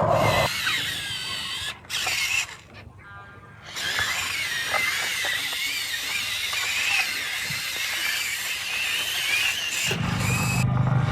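Whine of an RC excavator's small electric motor and hydraulic pump, its pitch wavering up and down as the machine works. It breaks off briefly about two and three seconds in.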